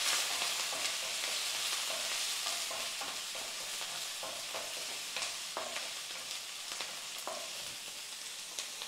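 Oil sizzling in a nonstick wok as a tempering of green chillies, garlic, curry leaves and spice seeds fries, while a wooden spatula stirs and scrapes the pan with scattered short clicks. The sizzle is strongest at the start and eases off slowly.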